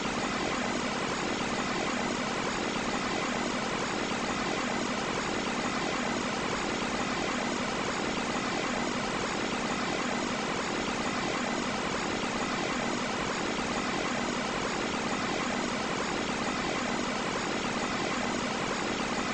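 Carrier Round One air conditioner running steadily: an even rush of fan air with a constant low hum and a faint high tone.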